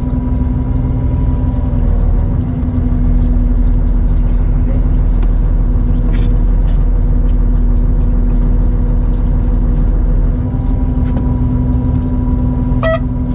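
Fishing boat's engine running steadily: a low rumble with a constant hum.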